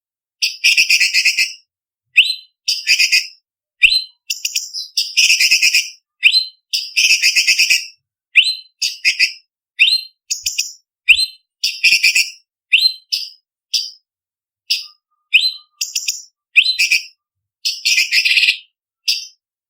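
Orange-bellied leafbird (cucak cungkok) singing: short rising whistled notes alternating with longer harsh, rattling chattering phrases, each burst cut off into dead silence.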